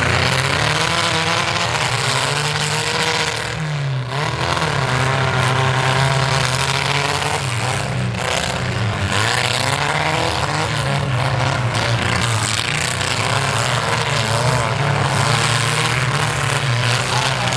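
Engines of several compact demolition-derby cars running and revving at once, their pitches rising and falling over each other, with a brief dip about four seconds in.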